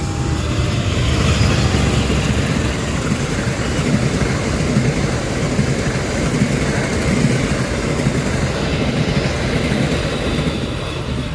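A train passing close by: a loud, continuous rumble of wheels on the rails.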